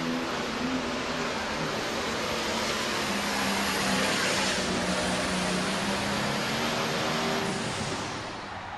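Pro stock pulling tractor's turbocharged diesel engine running loud, swelling around four seconds in, then dropping away near the end.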